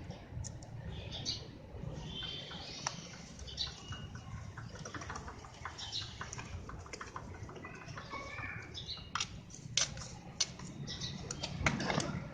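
A brush scrubbing diesel onto a motorcycle chain, with irregular scratching and many short clicks.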